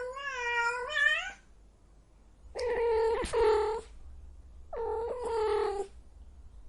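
A cat meowing: three drawn-out, wavering meows of about a second each, with short pauses between them.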